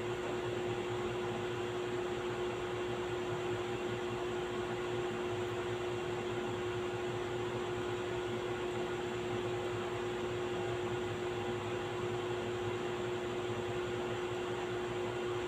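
Steady hum of a running household appliance such as an electric fan, a constant tone over an even noise that does not change.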